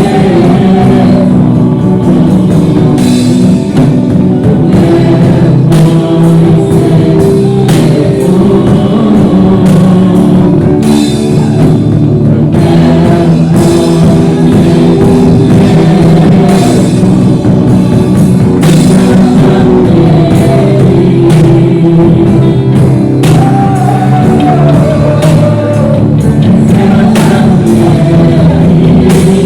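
Loud worship band music in a rock style: drum kit and guitars playing steadily.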